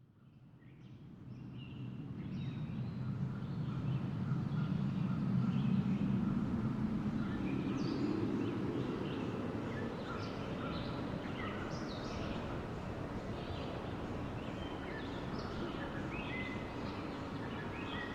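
Wind blowing in a low rush that fades in over the first few seconds and swells to a gust about six seconds in, with birds chirping throughout.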